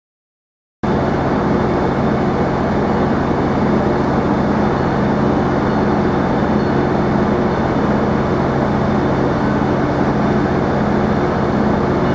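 Train engine running steadily with an even, low drone, cutting in abruptly about a second in.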